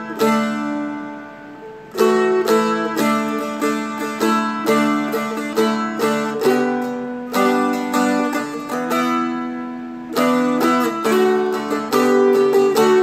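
Seagull Merlin M4, a four-string dulcimer-style instrument, flatpicked: a chord rings out and fades, then about two seconds in a melody line resumes, picked note by note over ringing drone strings.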